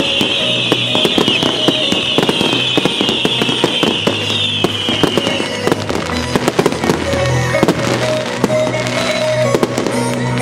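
Fireworks display: a dense run of sharp bangs and crackles from bursting aerial shells and ground fountains, with music playing underneath.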